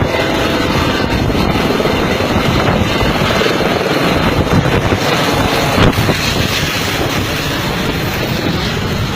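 Helicopter running close by, a loud steady rush of rotor and engine noise with a rapid low beating, and a brief louder knock about six seconds in.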